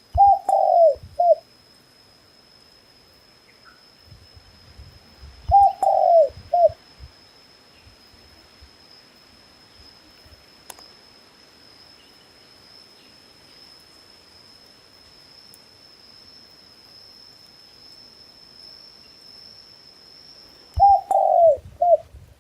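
A dove cooing three times: short phrases of about three falling notes, near the start, about five seconds in and near the end. Behind them a thin, steady high-pitched tone runs and stops shortly before the last phrase ends.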